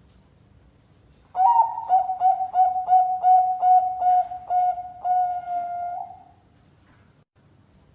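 Zebra dove (perkutut, Bangkok strain) singing its cooing song: about a dozen quick, evenly spaced notes that run into one longer held note. The song starts about a second in and stops at about six seconds.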